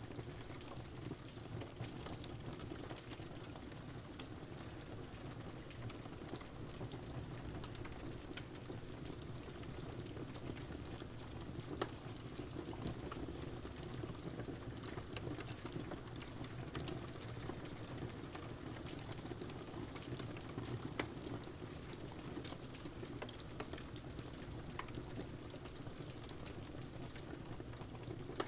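Steady rain mixed with a wood fire crackling: an even hiss with scattered sharp pops throughout, two of them louder, one near the middle and one about two-thirds through.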